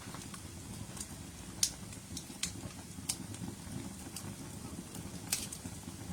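Wood campfire burning: a steady low rush of flame with irregular sharp crackles and pops from the burning wood, the loudest pops about one and a half seconds in and near the end.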